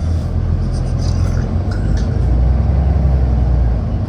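City bus under way, a steady low rumble of engine and road noise.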